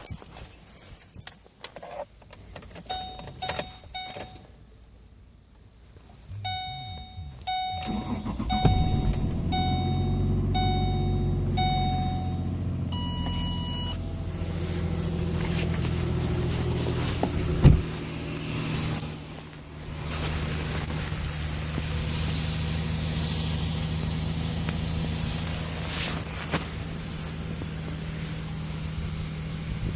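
Ford 4.0 SOHC V6 of a 2006 Explorer cold-started at about 24 °F. Keys rattle, the dashboard warning chime beeps about once a second, and the engine cranks briefly and catches about eight seconds in. It then settles into a steady cold fast idle, with one sharp knock about eighteen seconds in.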